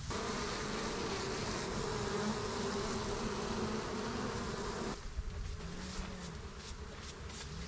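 Many honeybees buzzing at once around the hive, a dense drone with a wavering pitch, which cuts off suddenly about five seconds in. After that comes fainter buzzing of single bees flying past, with a few light clicks.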